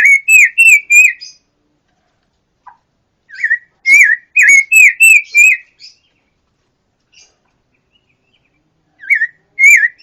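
A pancawarna songbird singing loud phrases of five or six quick, looping whistled notes, three times with pauses between.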